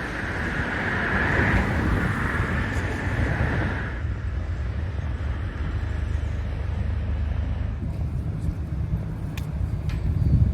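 Road traffic: a passing vehicle's tyre hiss fades out about four seconds in, over a steady low rumble.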